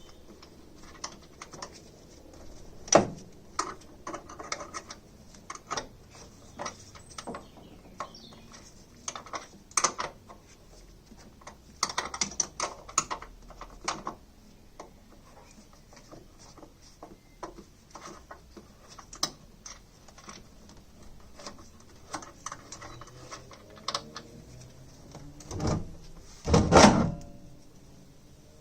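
Irregular clicks, clinks and knocks of hands and tools working on the car's bonnet brackets. A sharp knock comes about three seconds in, and there is a heavier double thud near the end.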